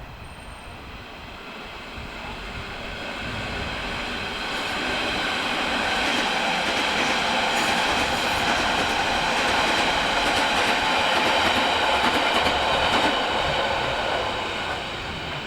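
A train passing on the station tracks. Its sound swells over about ten seconds and fades near the end, with a steady high whine and a few wheel clicks at its loudest.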